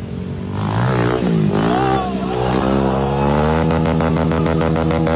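A motor running with a pitched hum: its pitch sags, then rises again and holds steady with a fast even pulse.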